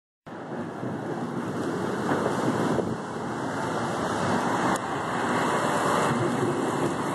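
Heavy thunderstorm rain pouring down, with wind buffeting the microphone: a steady rushing noise that builds over the first couple of seconds.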